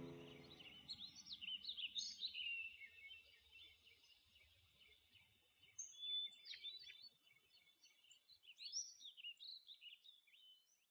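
Faint bird chirps in three short spells over near silence, with a low rumble fading out at the start.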